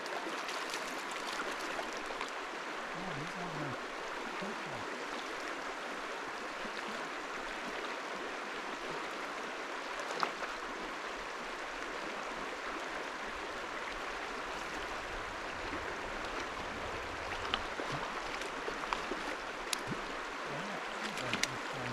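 Steady rush of river water flowing over the riverbed, with a few faint clicks.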